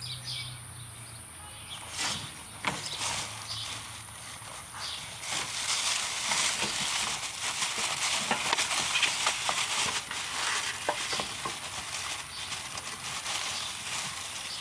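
Rustling and scattered light clicks as fishing tackle is handled while a rod is rigged. The rustling is densest through the middle.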